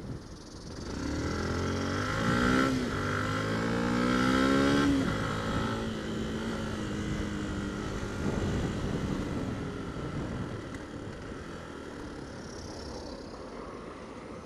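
Yamaha WR125X's 125 cc single-cylinder four-stroke engine accelerating away from a standstill: the pitch rises, dips at a gear change a little under three seconds in, rises again, then eases off to a steady cruise with wind and road noise.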